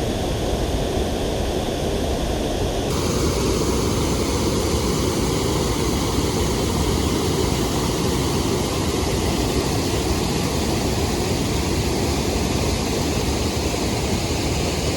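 Water rushing steadily over a small creek waterfall, a loud, even rush with no breaks; its tone shifts slightly about three seconds in.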